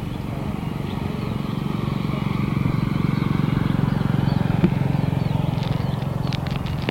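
Jet airliner engines rumbling as an aircraft moves past on the runway, the sound swelling to a peak about four seconds in and then easing off. A few short high clicks near the end.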